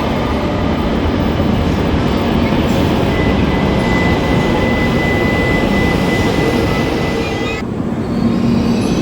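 Train running at a railway station: a loud, steady rumble, joined about three seconds in by a thin, steady high whine that breaks off abruptly near the end.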